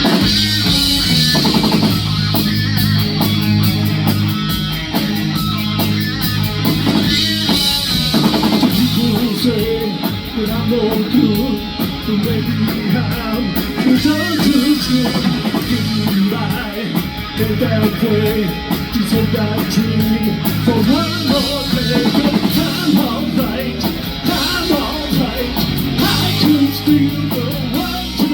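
Rock band playing live and loud, with guitars over a drum kit and steady cymbal strokes.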